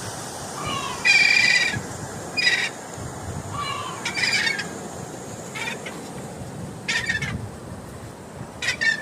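Seagulls calling: a run of short cries every second or so, the loudest about a second in.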